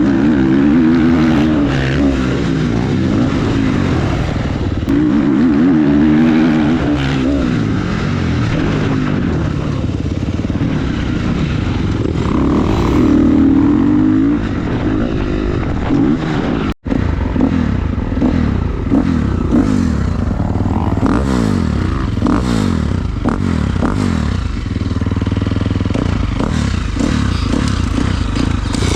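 Motorcycle engine running and being revved, its pitch repeatedly rising and falling, with a brief cut in the sound about 17 seconds in.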